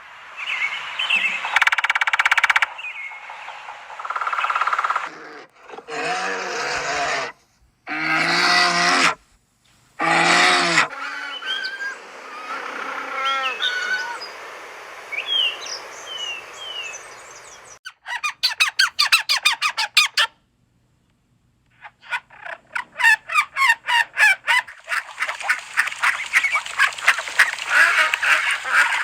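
Waterfowl calling in a series of separate bursts: three loud honks about halfway through, then higher chirping, then fast runs of rapid quacking calls near the end.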